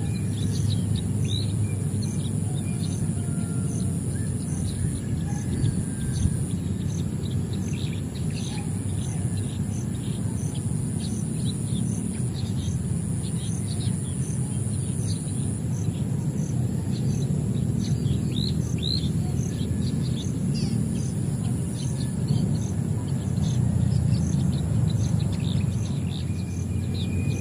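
Small birds chirping outdoors: many short, quick chirps one after another, with no clear song. Under them is a steady low rumble and a steady high tone with even pulses about twice a second.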